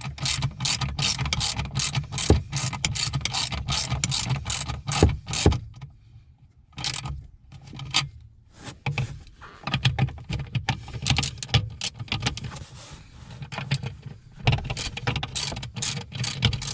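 Ratchet wrench clicking in quick, even strokes, about three to four a second, tightening the mounting fasteners of a new gas pedal. It pauses for a few seconds about six seconds in and again near thirteen seconds.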